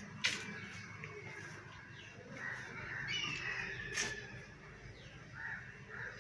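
Birds calling in several short calls, over a steady low hum, with a sharp click just after the start and another about four seconds in.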